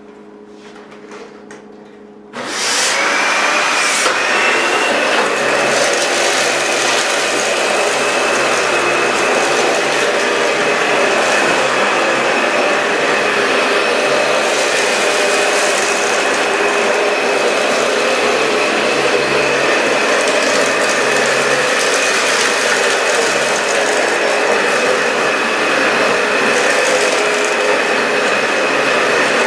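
Dyson DC65 upright vacuum cleaner switched on about two seconds in, then running steadily with a constant high whine over its rushing airflow while it picks up potting soil from a hard kitchen floor.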